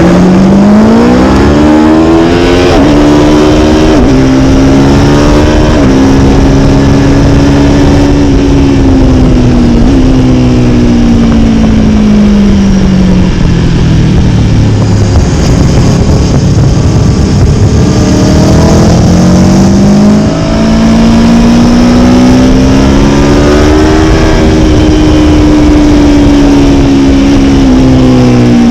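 Motorcycle engine under hard acceleration, revs climbing with quick upshifts every second or two, then winding down as the bike slows, and climbing again through another shift before falling off near the end, with heavy wind rush.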